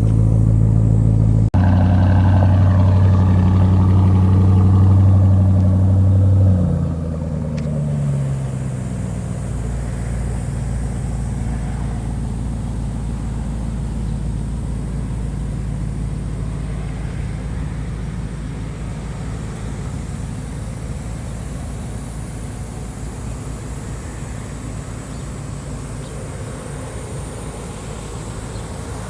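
Porsche Cayenne GTS Coupe's twin-turbo V8 through its sport exhaust, running at a raised, steady engine speed, then dropping back about six and a half seconds in to a quieter, steady idle.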